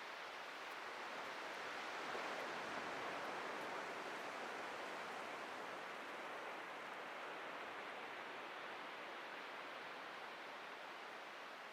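Atlantic ocean surf washing steadily on the beach, a continuous hiss of breaking waves that swells a little a couple of seconds in and slowly eases off.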